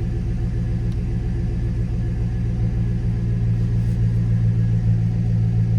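5.3-litre V8 of a 2006 GMC Sierra 1500 idling steadily with a low, even rumble, growing slightly louder in the second half.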